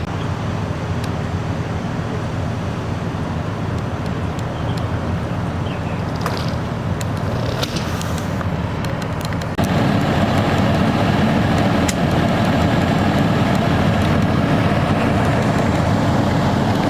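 Vehicle engines and road noise, a steady drone; about ten seconds in it cuts abruptly to a louder, deeper steady engine drone.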